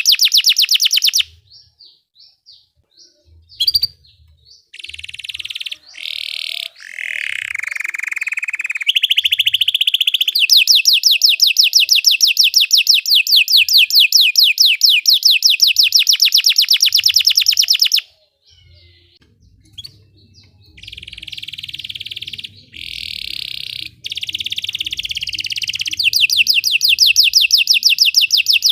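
Belgian canary singing in phrases of fast trills, rapid runs of repeated high notes. A long trill runs from about ten to eighteen seconds in, with a lower, sliding phrase just before it and brief pauses between phrases.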